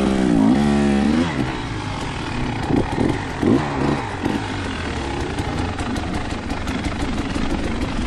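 Enduro dirt bike engine being ridden, revving up and back down in the first second, then a couple of short throttle blips, over steady engine and riding noise.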